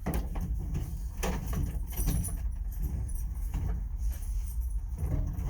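Metal tool box drawer and its slide rails being worked into line: scattered light clicks, knocks and scrapes of sheet metal, over a low rumble.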